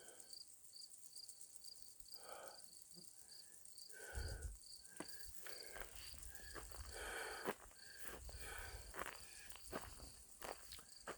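A hiker's footsteps crunching and rustling along a trail, with an insect chirping steadily in the background, about four short high chirps a second.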